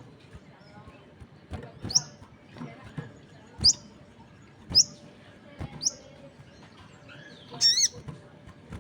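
Songbirds calling: sharp, high chirps that sweep down in pitch, coming about once a second, and near the end a longer wavering call with a ringing, overtone-rich quality. Per the title, this is a sogon in full call with other birds answering.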